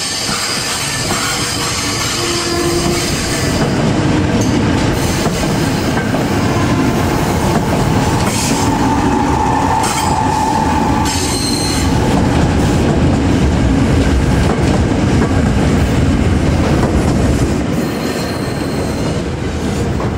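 KRL Commuter Line electric train rolling slowly past at close range over curved track and points: a steady rumble of wheels and running gear with clicks from rail joints. Short wheel squeals come and go, a lower one about two seconds in, then higher ones past the middle and near the end.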